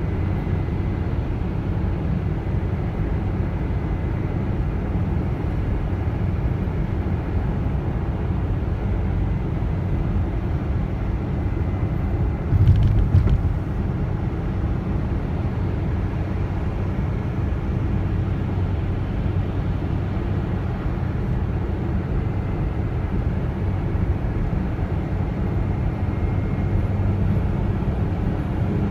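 BMW car driving, with a steady low rumble of engine and road noise. A brief louder bump comes about halfway through.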